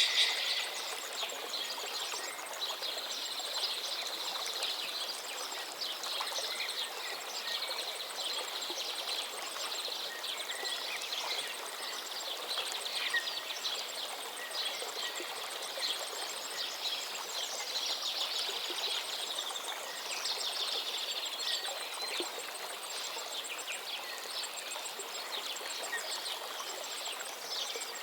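Steady rush of a flowing stream, with small birds chirping and trilling over it throughout; one louder call comes right at the start.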